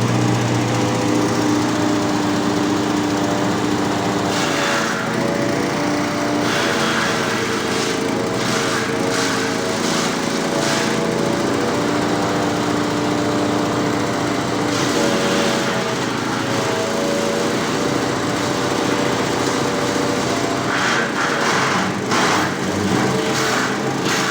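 The 18.5 hp petrol engine of a GBK-180 drum wood chipper running steadily under throttle. Several noisy crunching bursts, each lasting one to three seconds, come as branches are fed through the knife drum and chipped.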